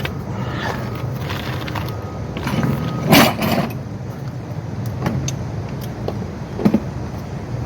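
Short metallic clinks and rattles from shock-mounting bolts and hand tools being handled while the bolts are threaded in by hand, the loudest about three seconds in, over a steady low hum.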